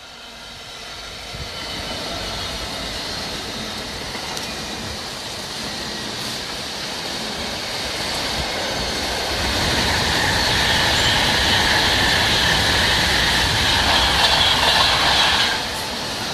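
A train passing on the rails, its wheel and rail noise growing steadily louder as it approaches, with a high metallic ring from the wheels; the sound drops suddenly near the end.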